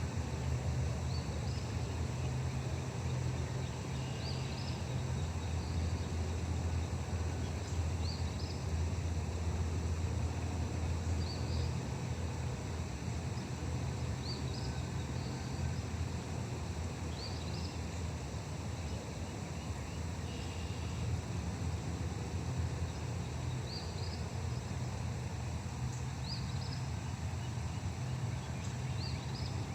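A bird repeats a short, high call about every three seconds over a steady low rumble.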